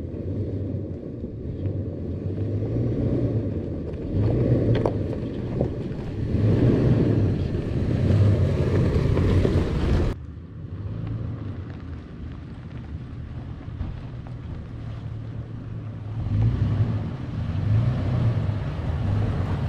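Toyota FJ Cruiser on the move: low road and wind rumble with a low hum that swells and fades. This is the front-end noise traced to the front driver's side wheel, which the owner puts down to a loose tie rod. The sound drops suddenly about halfway through and carries on quieter, building again near the end.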